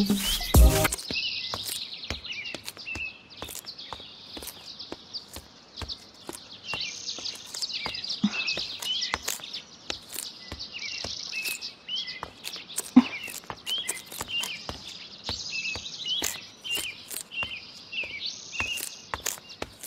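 Small birds chirping over and over in outdoor ambience, with many short ticks throughout. A brief louder noise comes in the first second.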